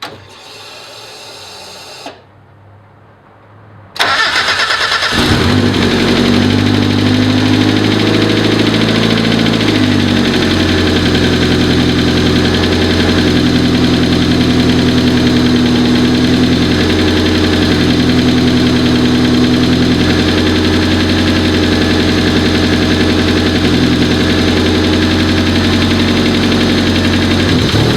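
Turbocharged 1.6-litre Mazda Miata four-cylinder engine starting about four seconds in, then running steadily at idle, its pitch shifting slightly as the idle settles.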